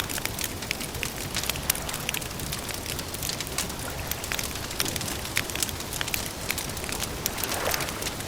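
Campfire crackling: frequent sharp, irregular pops and snaps over a steady background hiss, with a brief lower sound near the end.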